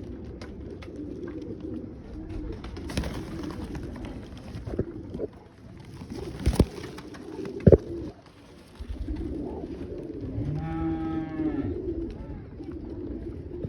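Pigeons cooing steadily, with two sharp knocks near the middle and a long, low call about ten and a half seconds in.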